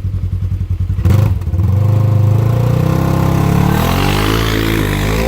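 Polaris RZR side-by-side's engine running at low revs, then a clatter about a second in and the engine revving up hard under load, its pitch rising as it tries to climb a steep hill.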